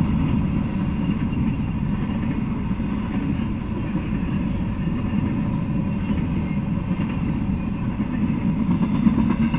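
Freight train's intermodal well cars rolling past, mostly empty: a steady low rumble of steel wheels on the rails.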